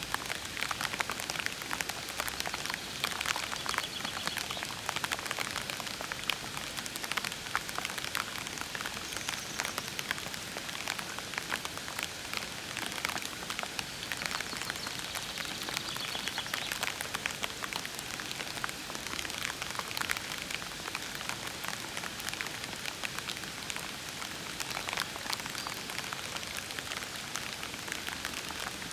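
Steady gentle rain, with many individual drops ticking close by over an even hiss.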